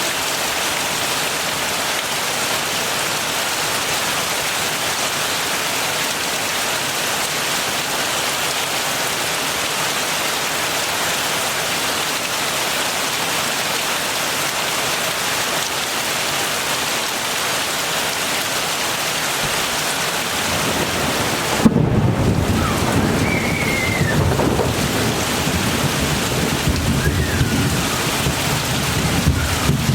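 Steady heavy rain falling. About two-thirds of the way through, thunder breaks in with a sharp crack and keeps rumbling over the rain for the rest.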